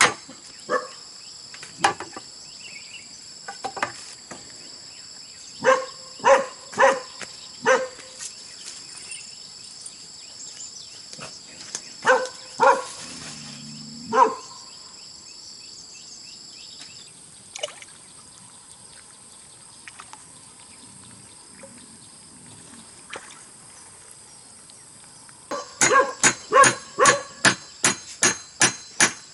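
Hammer blows on bamboo, about four a second, in short bursts: a few strokes a third of the way in and again partway through, then a steady fast run near the end. Between the bursts, insects drone steadily in the background.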